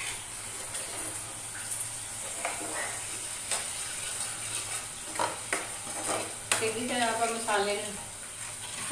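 Onion, ginger and garlic masala paste sizzling in hot oil in a steel pan while a ladle stirs it. The steady sizzle is broken by several sharp scrapes and clicks of the ladle against the pan.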